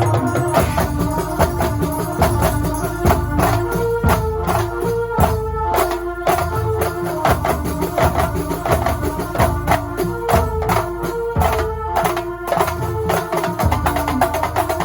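Kuntulan music from Banyuwangi: frame drums and other hand percussion keep up a dense, driving rhythm under a keyboard melody that moves in short steps.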